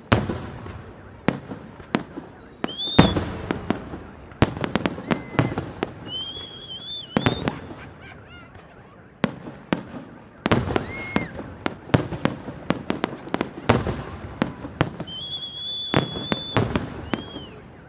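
Fireworks salute: aerial shells bursting in a rapid, irregular run of loud bangs and crackles, with high whistling tones now and then.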